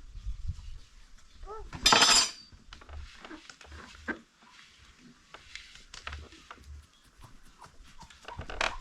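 Metal pots and utensils clinking and knocking at irregular intervals, with one short, loud, harsh call about two seconds in.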